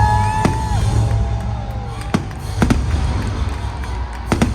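Firework bangs from an aerial display: a sharp crack about half a second in, three more between two and three seconds, and a quick pair near the end. They sound over loud music with a heavy, steady bass.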